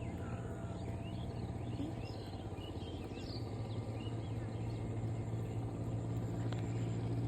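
A steady low motor hum, growing slightly louder toward the end, with faint bird chirps over it.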